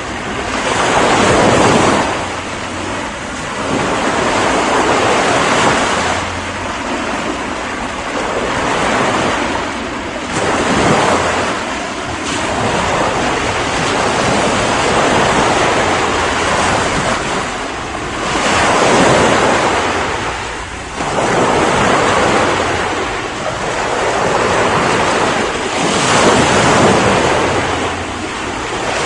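Ocean waves breaking and washing on the shore, the surf swelling and easing again every few seconds.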